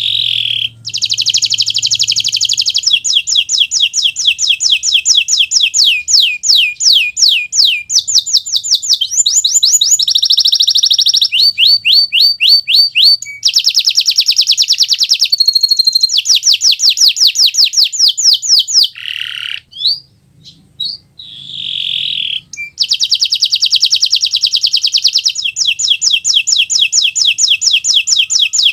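Domestic canary (Kenari Nusantara) singing a loud, long song of fast trills: runs of rapid, repeated downward-sweeping notes, one phrase after another, with a brief pause about two-thirds of the way through before the trilling resumes.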